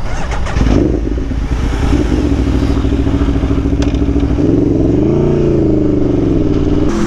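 Aprilia Tuono V4 1100 motorcycle's V4 engine running through an SC Project exhaust as the bike rides out on track. The engine note climbs at the start, holds steady, then rises and falls again about two-thirds of the way in.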